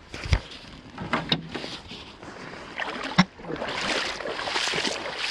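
Gear being pulled out of a canoe: a pack and portage yoke knock against the hull a few times, the sharpest knock about three seconds in, followed by about a second and a half of steady rustling noise.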